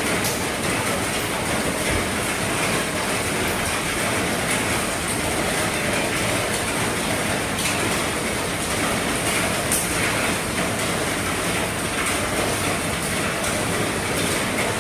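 Heavy rain falling on an RV's roof: a steady, dense patter with scattered sharper drop hits.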